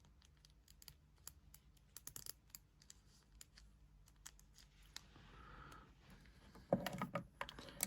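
Small plastic toy figures being handled, making scattered faint clicks and taps, with a cluster of louder clicks and knocks near the end.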